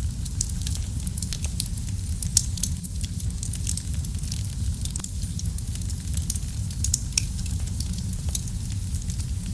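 Wood fire crackling in a fireplace: a steady low rumble of burning with frequent small sharp pops and snaps, one louder pop about two and a half seconds in.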